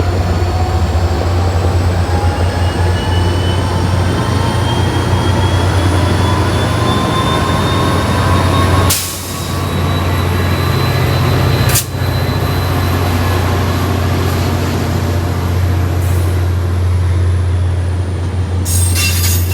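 Tri-Rail commuter train running, with a steady low rumble and a faint whine that rises slowly in pitch as it gathers speed. The sound breaks off sharply twice, then a cluster of clicks comes near the end.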